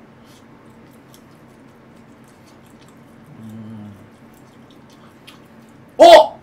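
A man quietly chewing jokbal (braised pig's trotters), with faint wet mouth clicks and a short low hum through closed lips a little past the middle. Near the end comes one short, loud vocal exclamation.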